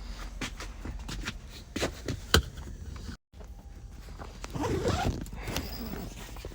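Rustling, scraping and clicks of a person getting out of bed, with a zipper-like rasp among them. A little past halfway the sound drops out for an instant, and a short wavering vocal sound follows.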